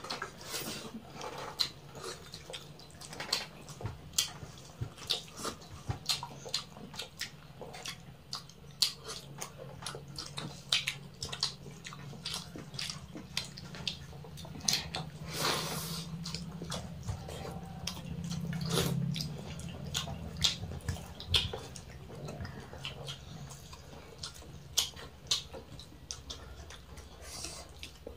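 Close-up eating sounds: wet chewing, lip smacks and fingers mixing rice and curry on metal plates, heard as many short irregular clicks over a faint low steady hum.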